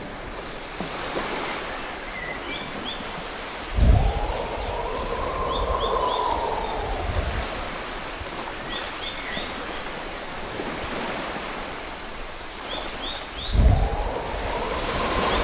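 Outdoor nature ambience: a steady rush of water that swells twice, each swell starting with a low thump, and birds chirping short rising calls in groups of three.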